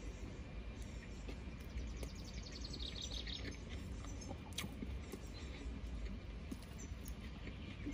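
Quiet background with faint bird chirping from outside, a short high trill about three seconds in, over a low steady rumble.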